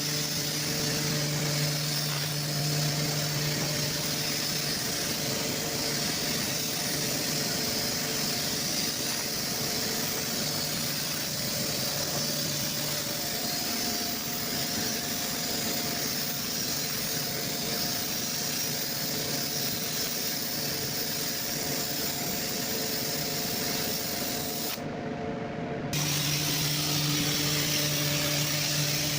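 Steady hissing noise over a constant low machine hum; the high hiss drops out for about a second near the end.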